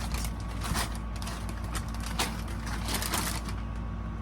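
Crinkling of plastic snack-bag packaging being handled, in irregular sharp rustles over a steady low hum.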